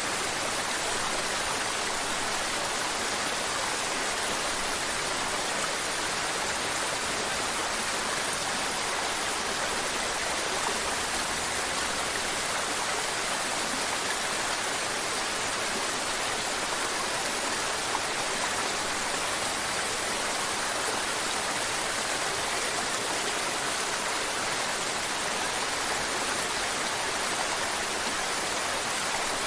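Mountain stream water babbling and rushing over rocks: a steady, unbroken hiss of flowing water.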